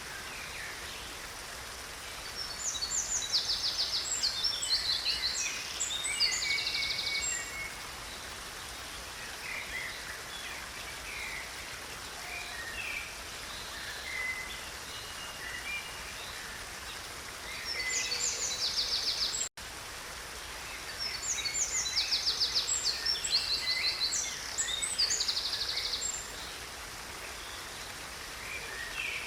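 A stream flowing steadily under a songbird singing, with two long bouts of rapid trills and chirps a few seconds in and again past the middle. The sound drops out for an instant about two-thirds of the way through.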